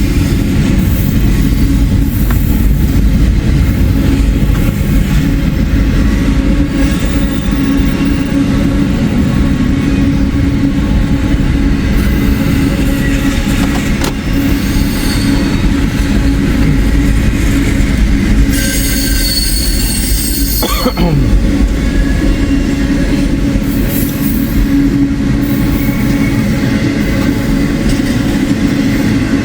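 Long freight train rolling past: a steady rumble of steel wheels on rail, with wheel squeal at times and a brief high squeal about two-thirds of the way through.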